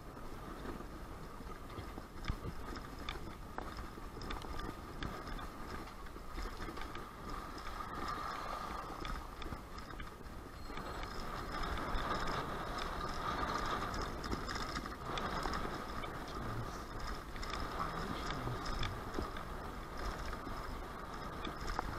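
Strong wind rushing and buffeting the microphone, a steady noise with a low rumble that swells about halfway through.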